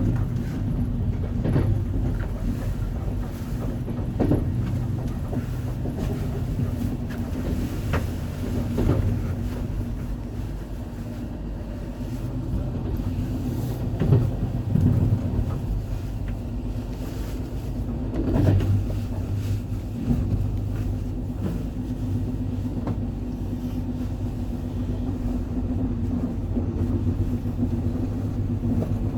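Passenger train running along the track, heard from on board: a steady low rumble with a few short knocks.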